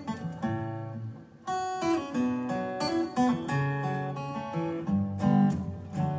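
Acoustic guitar playing an instrumental passage of picked notes and strums, with no singing. It nearly stops just after a second in, then comes back strongly.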